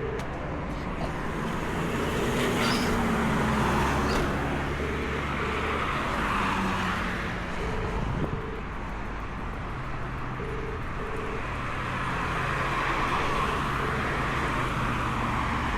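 Road traffic: vehicles passing in swells over a steady low engine hum.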